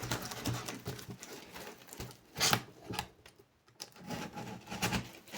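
Cardboard shipping box being cut open and handled: irregular scraping and rubbing, with two sharper scrapes about two and a half and three seconds in, then a short pause.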